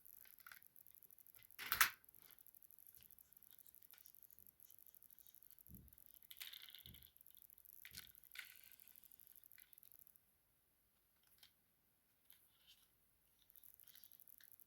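Faint handling noises of small objects: scattered clicks, taps and rustling, with one sharp knock about two seconds in and a couple of dull thumps around the middle.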